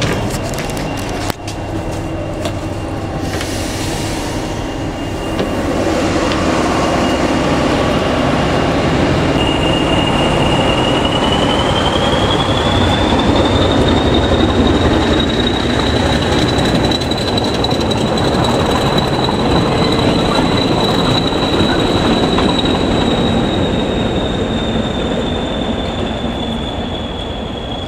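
Passenger train running on the rails, heard from aboard: a loud, dense rumble of wheels and carriage with a continuous high-pitched squeal. The squeal rises in pitch about ten seconds in and then holds steady.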